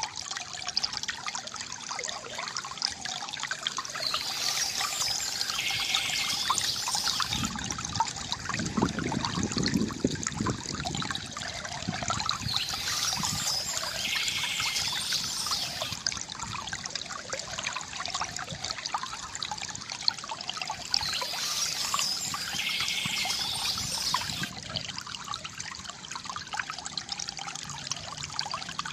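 River water trickling and gurgling steadily, with a deeper gurgle swelling for a few seconds a third of the way in. Birds chirp in three similar bursts, about eight or nine seconds apart, over the water.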